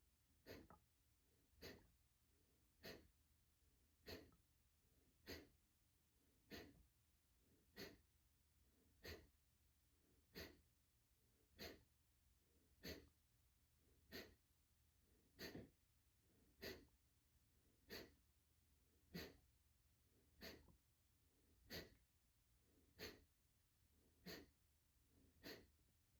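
Kapalbhati breathing: about twenty short, forceful exhalations through the nose, pushed out by the abdomen and evenly paced at roughly one every second and a quarter, with quiet passive inhales between. The sound is faint.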